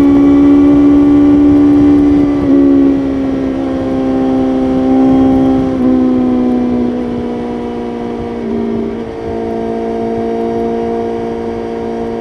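BMW S1000RR inline-four engine running at steady high revs at highway speed. Its pitch eases down in small steps about two and a half, six and eight and a half seconds in, and it slowly gets quieter, with wind rumble on the microphone.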